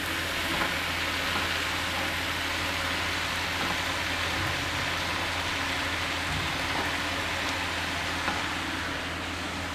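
Stir-fried vegetables and egg sizzling steadily in hot oil in a wok.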